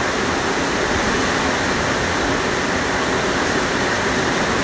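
Heavy tropical downpour falling steadily on houses and vegetation: a dense, even hiss of rain with no let-up.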